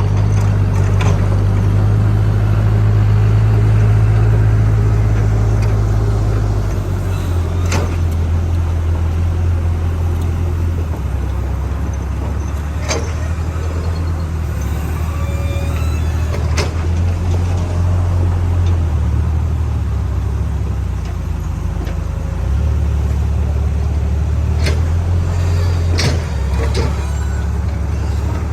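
Diesel engine of a JCB backhoe loader running under varying load, its low drone stepping up and down in pitch every few seconds. Several sharp knocks ring out over it.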